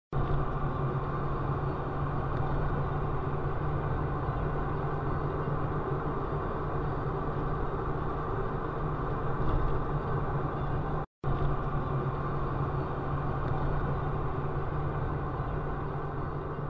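Steady engine hum and road noise inside a car, dropping out for a split second about eleven seconds in and easing off near the end.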